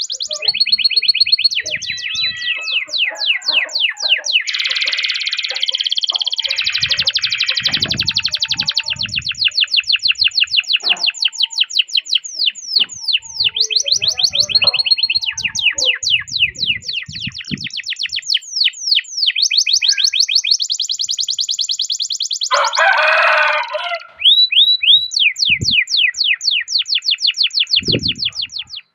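Domestic canary singing a continuous song of long rolling trills: rapid strings of quick, high chirps that switch to a new trill every second or two. About three quarters of the way in there is a brief harsh, buzzy passage.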